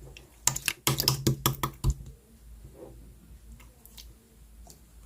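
Slime being pressed and squished by hand on top of clear slime, giving a quick run of sharp clicking pops in the first two seconds, then softer, scattered clicks.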